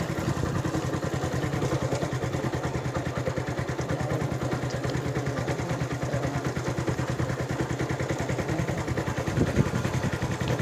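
A heavy engine running steadily with a fast, even chugging pulse.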